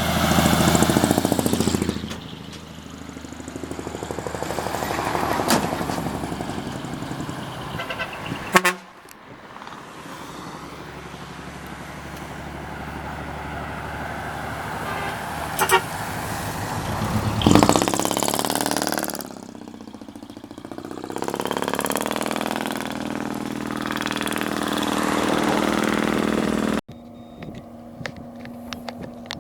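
Decorated trucks (dekotora) driving past one after another, their diesel engines revving loudly through manifold-split exhausts, with horn toots. Abrupt cuts about 9 seconds in and near the end.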